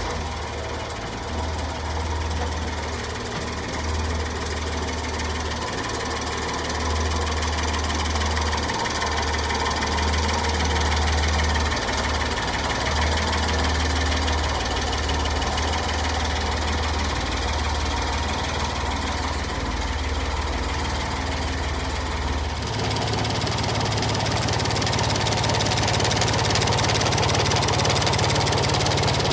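1997 Honda Acty mini truck's small three-cylinder engine idling steadily. About 23 s in, the engine speed steps up and then holds at the higher pitch.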